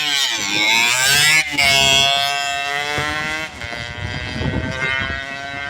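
Motorcycle engine at full throttle in a drag race, rising in pitch as it accelerates, cut briefly at a gear change about a second and a half in, then holding a high note that slowly falls and fades as it pulls away.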